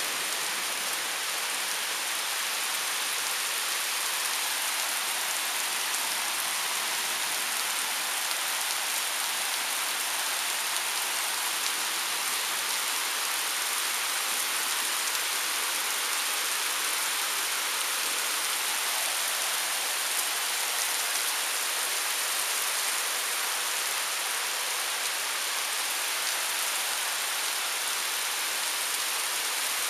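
Heavy thunderstorm downpour: a steady, even hiss of rain falling on trees and the ground.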